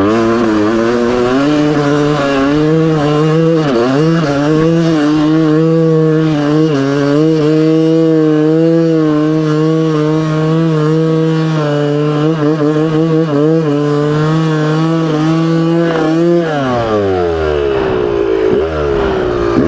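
Yamaha YZ250 two-stroke dirt bike engine held at high revs, wavering at first and then steady, as it tries to climb through deep snow. About sixteen seconds in the revs drop away and the throttle is blipped again near the end, as the bike bogs down in the snow.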